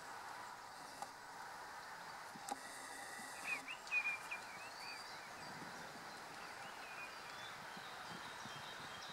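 Steady outdoor background hiss, with a bird chirping in a quick run of notes about three and a half seconds in.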